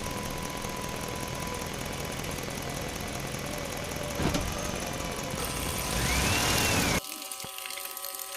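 A small engine-driven water pump running steadily. About seven seconds in, the sound cuts off abruptly to a quieter bed of steady tones.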